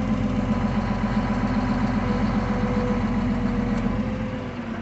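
Komatsu off-road truck's diesel engine idling steadily, with a faint thin whine coming and going above it; the sound eases slightly near the end.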